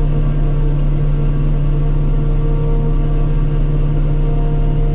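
Self-propelled forage harvester running steadily under load while chopping corn, a constant engine and cutterhead drone heard from inside the cab.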